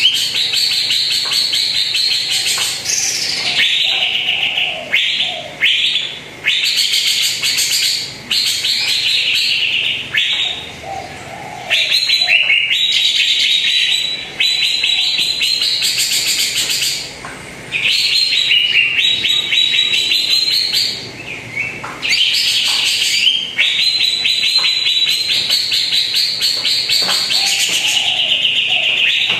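Cucak ijo (green leafbird) singing a loud, near-continuous song of rapid trilled phrases, with short breaks every few seconds.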